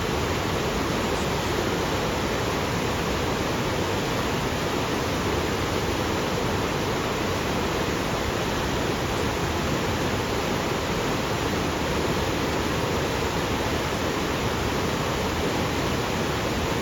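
Waterfall rushing water, a steady even roar.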